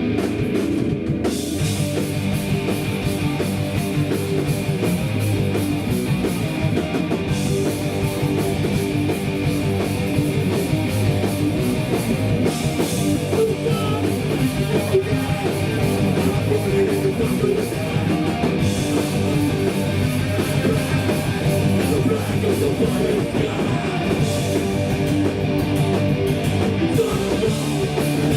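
Hardcore punk band playing live with distorted electric guitar; the full band comes in about a second in and plays on loud and steady.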